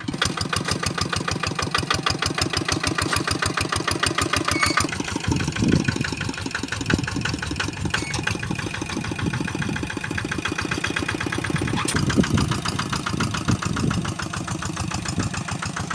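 Engine of a hand tractor plowing a flooded rice paddy, running steadily with a rapid, even chugging beat and swelling louder a couple of times.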